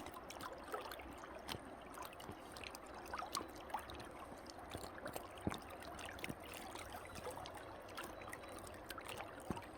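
Faint river water trickling and babbling, with scattered small ticks and clicks.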